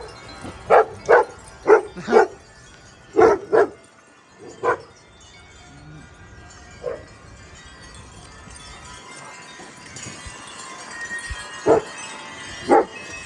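A dog barking in bouts: about eight short barks in the first five seconds, one more a couple of seconds later, then two near the end. Steady wind noise and faint wind chimes underneath.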